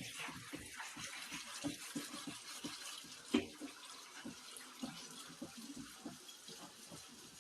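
Tap water running into a kitchen sink during dishwashing, with irregular knocks and clatter of dishes, one louder knock about three and a half seconds in.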